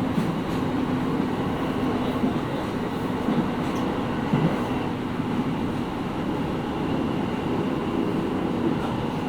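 Interior running noise of a JR East 701 series 5500-subseries electric train under way: a steady rumble and hiss of wheels on rail and car body noise, with faint steady tones from the drive equipment.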